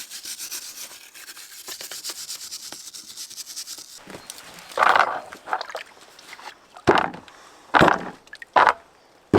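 A hissy scraping rub for about four seconds, then several loud, dull knocks.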